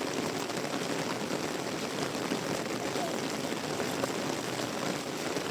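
Heavy tropical rain pouring steadily: a dense, even hiss of falling rain with faint drop ticks.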